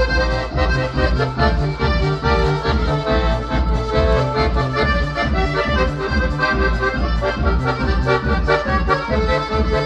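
Accordion playing a quick tune, fast melody notes over a steady, evenly pulsing bass.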